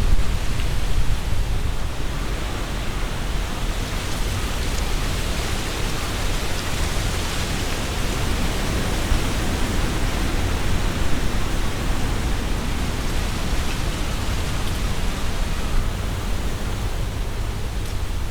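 Strong wind blowing through trees: leaves rustling, swelling in a gust partway through, with a low rumble of wind buffeting the microphone.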